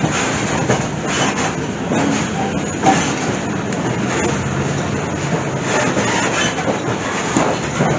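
Passenger train of the Lehigh Gorge Scenic Railway running on the track: a steady, loud rumble and clatter of wheels and cars.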